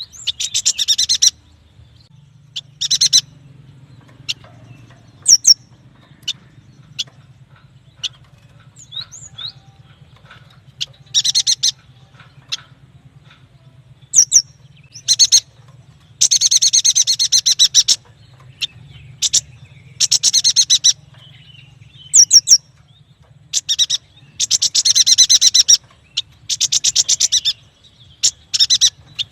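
Yuhina singing: repeated bursts of rapid, high chattering trills, some one to two seconds long, with short single chips between them. The longest, loudest bursts come about halfway through and again a little later.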